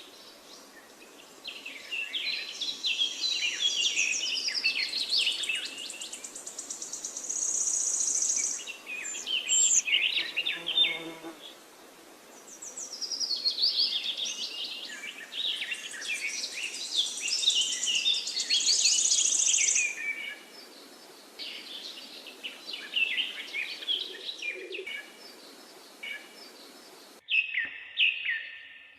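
Several wild birds singing in overlapping, varied chirping phrases, with a high, steady trill that comes and goes. The background hiss drops out abruptly near the end.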